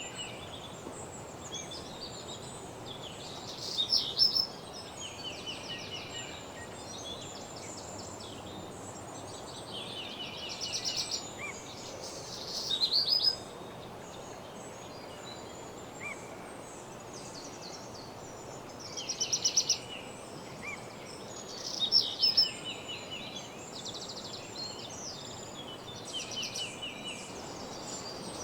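Songbirds singing: several overlapping songs of quick repeated notes and trills, with the loudest phrases coming every few seconds, over a steady low hiss.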